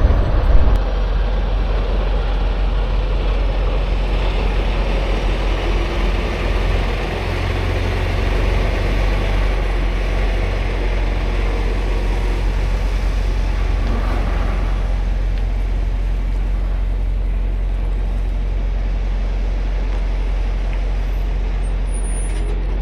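Semi truck's diesel engine running as the tractor-trailer drives off, a steady low rumble with road noise; the higher-pitched noise eases off about fifteen seconds in.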